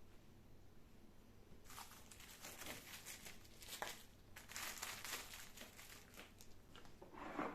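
Crinkling of a thin wrapper or bag being handled, in several crackly bursts from about two to five and a half seconds in.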